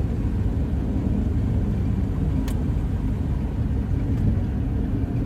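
Light aircraft engine running at low power with a steady low rumble in the cockpit while the plane rolls out after landing. A faint click sounds about halfway through.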